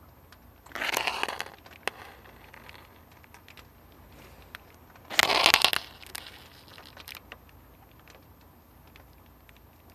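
Rain falling, with scattered drops ticking close by. Two short, loud bursts of noise break in, one about a second in and one just after five seconds, each lasting under a second.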